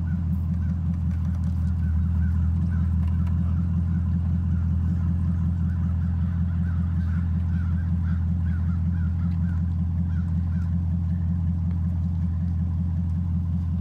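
Sixth-generation Chevrolet Camaro V8 idling steadily while the car sits stuck at the foot of a steep driveway. Over the engine there is a run of short, faint high calls that stops about ten seconds in.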